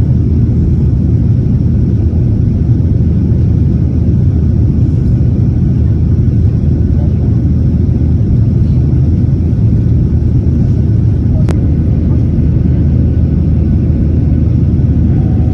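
Steady low rumble of a jet airliner's engines and airflow heard from inside the passenger cabin, with one sharp click about eleven seconds in.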